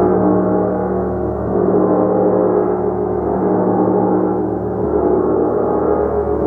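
Large gong played continuously: a dense, sustained wash of overlapping ringing tones, with a fresh soft stroke changing the low tones about every second and a half.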